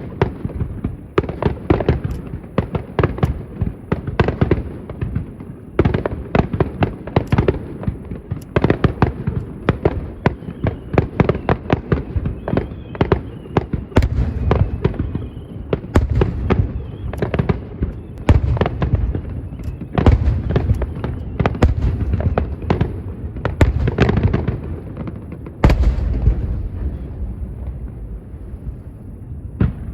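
A fireworks finale barrage heard from a distance: rapid, overlapping shell bursts and crackles, with deep booms at the thickest part, thinning out over the last few seconds.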